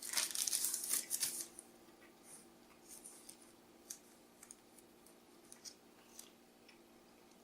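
Paper sandwich wrapper crinkling as the wrap is handled, loudest in the first second and a half, then scattered small rustles and clicks.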